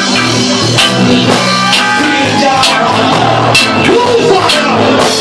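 Roots reggae band playing an instrumental passage between sung lines, with drum kit and guitar over a strong bass line.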